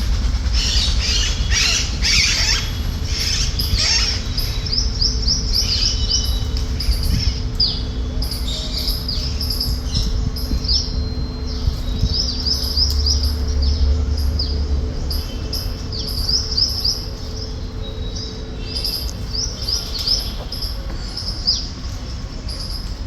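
Alexandrine parakeets chirping: a rapid run of short, high, downward-sliding chirps, busiest in the first few seconds and continuing in clusters, over a steady low rumble.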